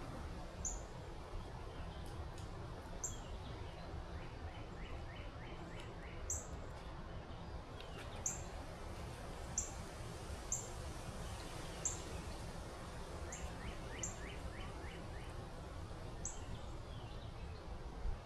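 Wild birds calling: short, high chirps every second or two, with two quick runs of rapid repeated notes, over a steady low background rumble.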